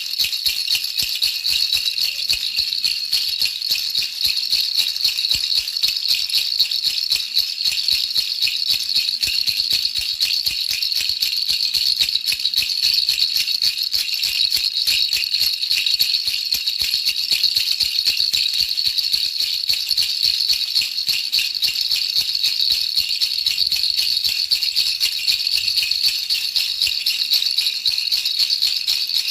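Baby rattle shaken without pause: a dense, steady, high rattling of small beads, played as a continuous white-noise track for baby sleep.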